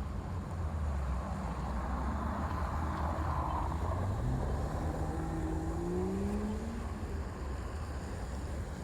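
A road vehicle passing on the street, a swell of noise followed by its engine note climbing steadily in pitch as it accelerates, over a steady low rumble.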